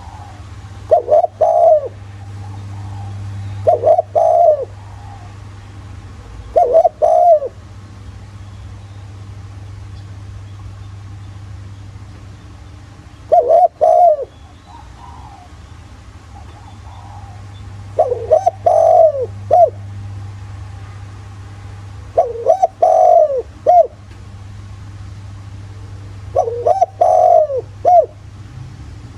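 Spotted dove cooing: seven repeated cooing phrases of a few notes each, spaced several seconds apart, over a faint steady low hum.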